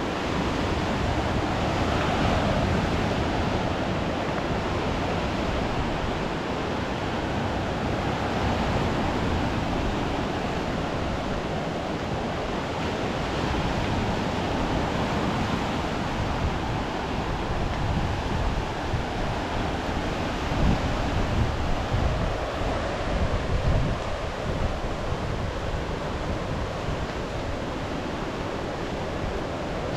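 Steady rushing outdoor noise, with gusts of wind buffeting the microphone about two-thirds of the way through.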